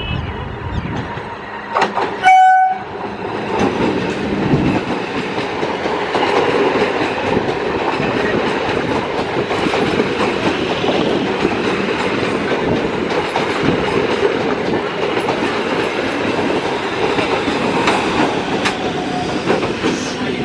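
Electric multiple unit local train sounds one short horn blast about two seconds in, then runs past close by with a steady rolling noise of wheels on rail.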